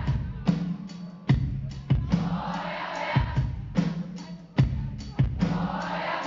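Live pop-rock band playing through a concert PA: a driving drum beat with sharp hits over a bass line, in a gap between sung lines.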